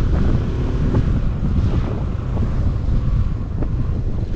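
Wind rushing over the microphone of a moving motorcycle, with a steady low rumble of the ride underneath.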